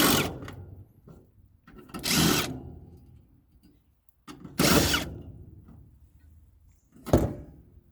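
Tool work on a furnace's metal parts while removing a piece: four short, sharp bursts about two seconds apart, each fading quickly.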